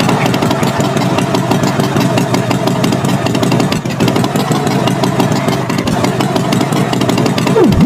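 Tractor engine running steadily. Near the end a quick swooping tone dips down and rises back up.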